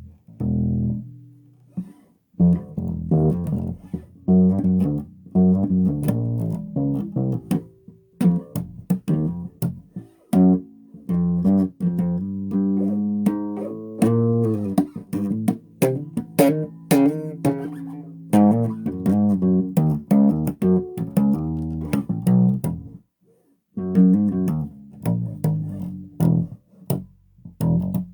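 Bass guitar played solo: a run of plucked notes and short phrases, with brief pauses about two seconds in and again after about 23 seconds.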